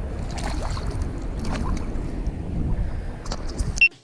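Wind buffeting the microphone in a low rumble, with water splashing and small knocks around a kayak on the sea. Near the end the rumble drops away and a short high electronic beep sounds.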